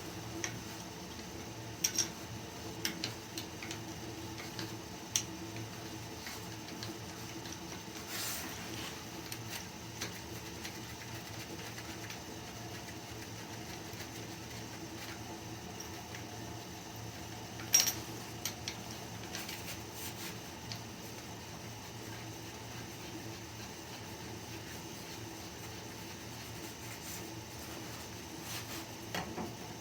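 Steady low mechanical hum from steam boiler equipment, with scattered sharp metallic clicks and knocks from handling pipe fittings, the loudest about eighteen seconds in, and a brief hiss about eight seconds in.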